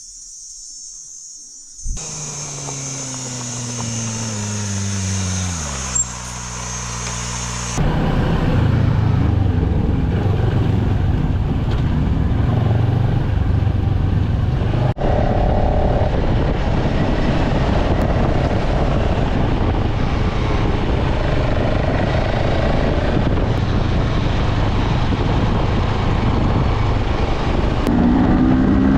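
A motorcycle engine comes in suddenly about two seconds in and its pitch falls as the revs drop. About eight seconds in it gets much louder, running under way with heavy wind noise. Near the end the revs climb.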